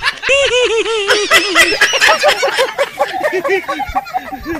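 A high-pitched comic laugh sound effect: a rapid string of short rising-and-falling 'ha' notes, several a second, thickening into overlapping laughter.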